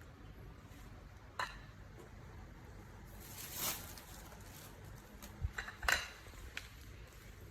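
A few light clicks and taps of a plate being handled, with a short rustling scrape about three and a half seconds in; the sharpest taps come near six seconds.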